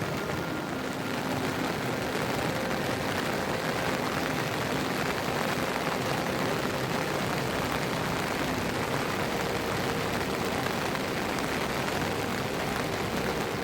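Heavy monsoon rain falling steadily, an even hiss with no breaks.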